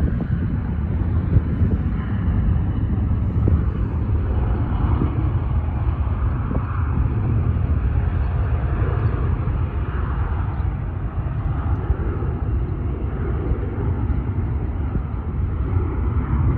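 Distant jet aircraft engine noise: a steady low rumble with no rise or fall.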